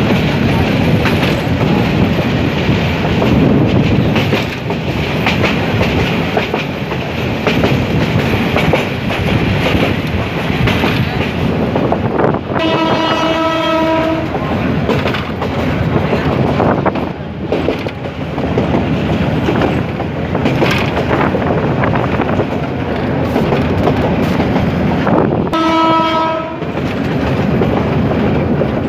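Passenger train running at speed, heard from on board: a steady rumble with the clatter of wheels on the rails. The locomotive horn sounds twice, a blast of over a second about halfway through and a shorter one near the end.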